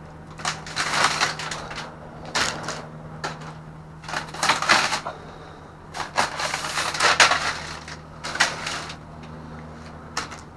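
Trash bags and packaging being rummaged through and pulled from a dumpster: irregular bursts of crinkling and crackling plastic, over a steady low hum.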